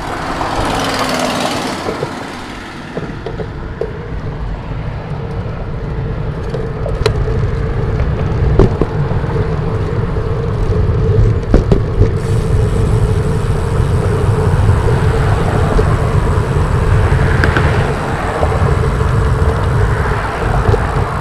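Wind buffeting the microphone of a road bike rider's camera, a heavy low rumble, over steady tyre hum on pavement. A brief whoosh about a second in.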